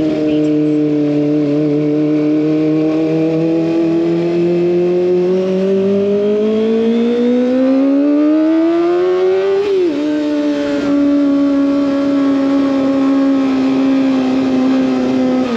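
Kawasaki ZX25R's inline-four engine through an SC Project exhaust, running at a steady pitch. It then climbs in pitch for several seconds as the bike accelerates, drops sharply on a gear change about ten seconds in, and holds steady again.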